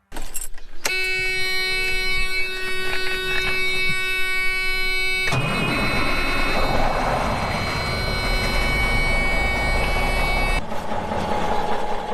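A steady, pitched, horn-like tone with many overtones starts about a second in and cuts off sharply after about four seconds. Dense mechanical noise from a running vehicle or farm machine follows, and it drops away about two seconds before the end.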